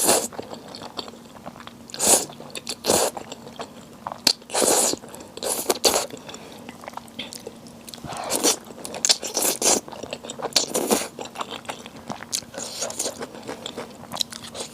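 Close-miked eating: a person biting and chewing crunchy food, with a loud bite or crunch every second or two and quieter chewing between.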